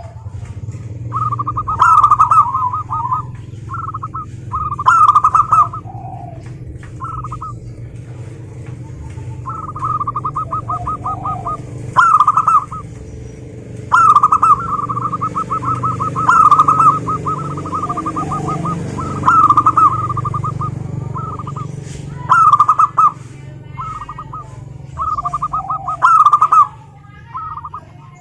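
Zebra dove song: repeated phrases of rapid staccato coos, coming every second or two.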